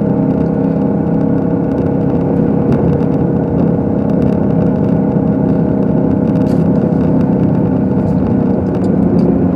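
A car driving at a steady speed: an even engine hum with road noise, holding one pitch throughout.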